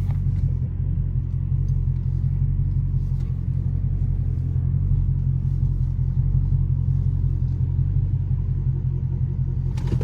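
Straight-piped 6.4-litre HEMI V8 of a 2012 Dodge Charger SRT8 idling with a steady, deep rumble, with no revving.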